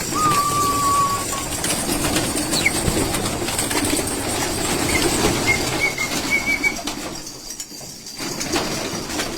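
Domestic pigeons cooing with wings flapping, over a steady rustling din. A short steady whistle-like call sounds near the start and a few high chirps come around the middle.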